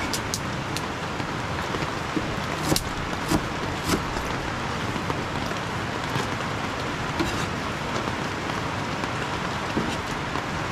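Heavy rain falling steadily, with scattered sharp clicks and taps.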